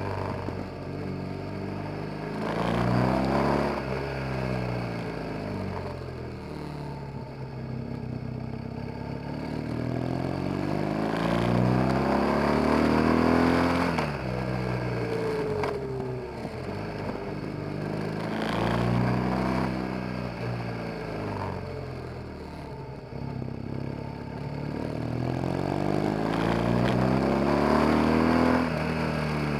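BMW R 1200 GS boxer-twin engine under way, heard from behind the bike: the engine note climbs steadily through each gear, then drops sharply at the change, about five times.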